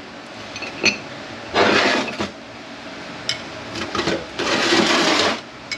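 Metal transmission parts being handled on a workbench: a couple of sharp clinks and two rasping noises of about a second each.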